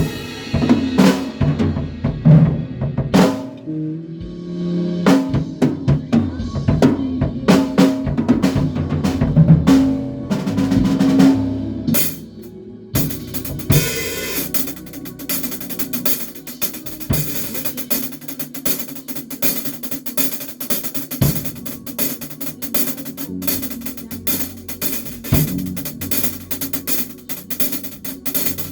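A band playing, led by a drum kit with low bass notes underneath. The first half has heavy drum hits, and about halfway through it changes to a busy, steady cymbal and hi-hat pattern.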